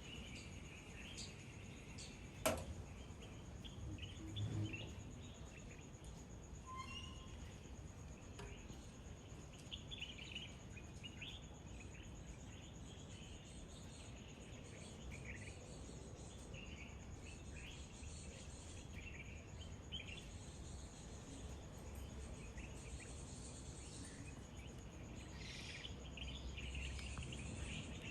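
Faint outdoor ambience: small birds chirping on and off over a steady high insect drone. A single sharp click about two and a half seconds in, and a brief low thump a couple of seconds later.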